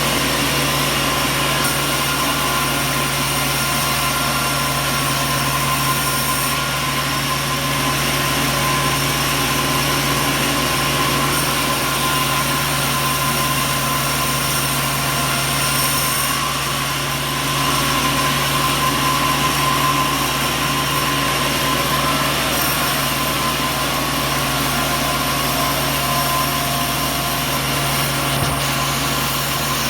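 A motor or engine running steadily with a constant hum, unchanging throughout.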